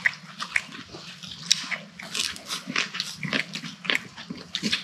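A person chewing and crunching a mouthful of pork wrapped with raw green chili, garlic, onion and kimchi, in quick, irregular wet crunches.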